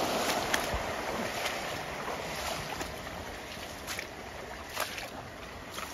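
Steady rush of river water, with scattered light clicks and snaps.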